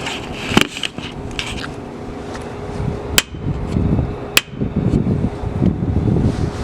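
Sharp clicks and taps of fuses and meter probes being handled while the board's fuses are tested, three distinct clicks in all, over a steady low hum and rumble.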